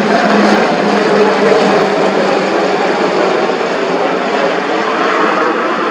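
AH-64E Apache attack helicopter flying past, a loud steady rush of rotor and turbine noise.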